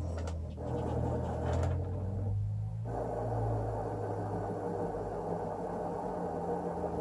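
Excalibur Mirage chess computer's robotic mechanism running, its motors moving the electromagnetic head under the board: a steady motor whir over a low hum, with a few clicks in the first two seconds. The whir breaks off briefly about two and a half seconds in, then carries on.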